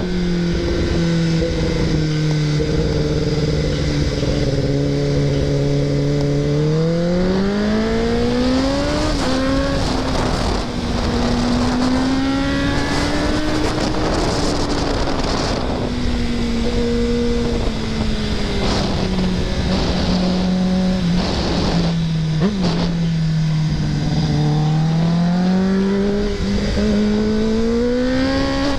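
2024 Kawasaki ZX-10R's inline-four engine pulling the bike along. The engine note holds low, climbs sharply, falls and climbs again as the throttle is rolled on and off through the bends, over a steady rush of wind noise.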